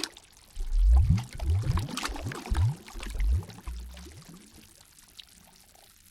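Water sloshing and gurgling in a run of splashy gulps, which die away about four and a half seconds in to a faint trickle.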